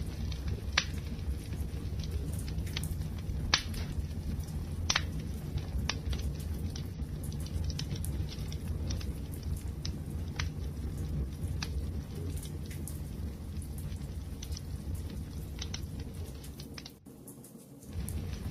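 Wood fire burning with a steady low roar and irregular sharp crackles and pops. The sound briefly drops away near the end, then resumes.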